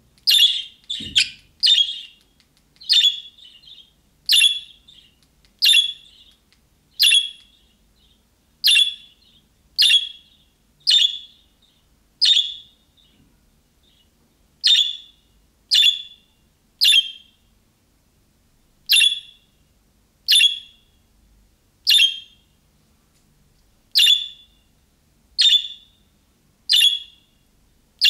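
A budgerigar giving short, sharp calls, repeated about once a second with brief pauses, each call much like the last. A faint low thump sounds about a second in.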